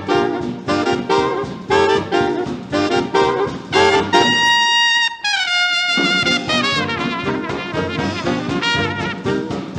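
Fast instrumental swing jazz led by brass, the horns playing short punchy figures over the rhythm section. About four seconds in the band stops and a trumpet holds one high note alone, bends it down, and the full band comes back in.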